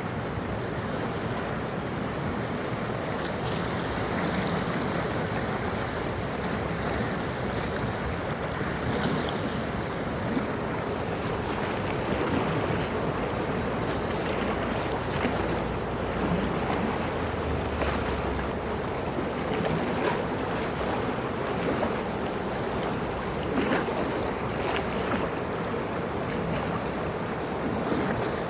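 Ganges river water rushing and lapping steadily, with brief splashes now and then.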